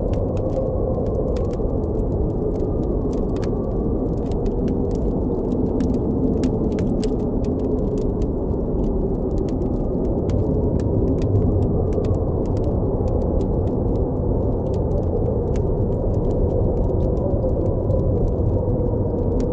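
Steady, deep blizzard wind with a low rumble, and a campfire crackling with many small, irregular pops over it.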